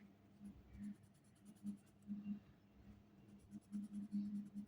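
Pencil strokes rubbing back and forth on paper in quick, repeated strokes, growing faster and louder near the end.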